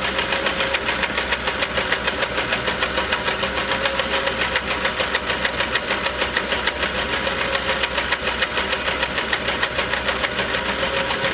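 Singer zigzag sewing machine running steadily at speed, its needle bar clicking in a fast, even rhythm as it sews a decorative stitch from top hat cam number 19 with a zigzag foot.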